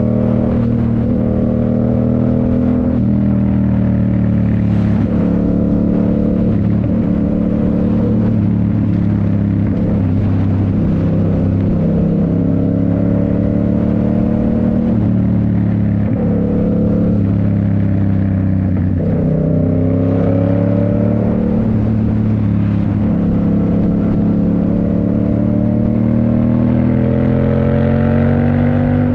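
2019 Yamaha MT-07's parallel-twin engine through a Toce full exhaust, riding under load. The pitch repeatedly climbs and then drops back as it shifts up through the gears and rolls on and off the throttle.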